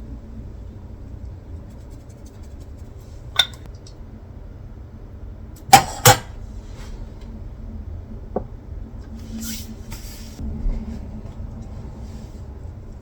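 Kitchenware being handled over a low steady hum: a few sharp clinks and knocks, loudest as two in quick succession about six seconds in, then a brief scrape.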